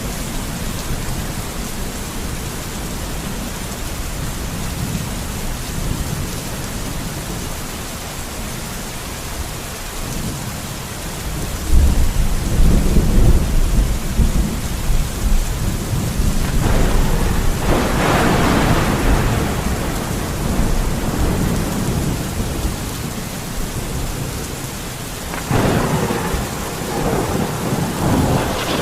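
Steady heavy rain with thunder. About 12 seconds in a loud low rumble breaks out and rolls on for several seconds, with a sharper crackling peak partway through, and a second rumble comes near the end.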